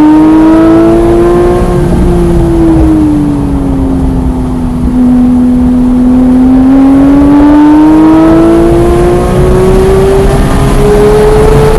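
Porsche 991.1 GT3's naturally aspirated flat-six pulling hard on track, heard onboard. The engine note rises, falls away for a few seconds as the revs drop, then climbs steadily again toward the end.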